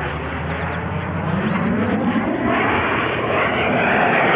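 Black Horse Viper RC jet's 120 mm 12-blade electric ducted fan running at high power in flight, its rushing whine growing louder from about halfway in as the jet approaches on a fast pass.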